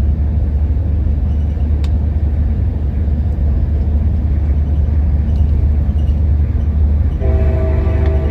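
Steady low rumble of a moving passenger train, heard from inside the coach. About seven seconds in, the locomotive's horn starts sounding, a steady chord that carries on to the end.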